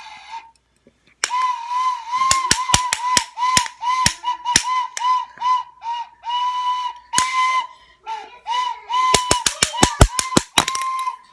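Toy flute blown over and over in short toots on one high note, with a few longer held notes in the middle and a quick run of rapid toots near the end.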